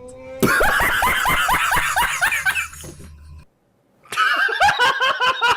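Rapid, repeated laughter in quick pitched bursts, about five a second, in two bouts with a short break about three and a half seconds in.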